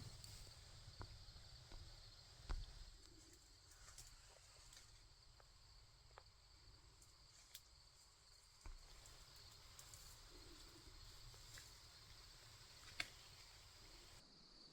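Near silence outdoors: a faint, steady high-pitched insect chorus, with a few scattered soft ticks and rustles and a sharper click about two and a half seconds in and again near the end.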